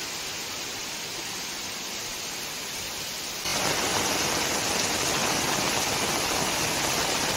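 Heavy rain pouring steadily. About three and a half seconds in it gets louder, joined by rushing runoff water spouting from a drain pipe onto a flooded path.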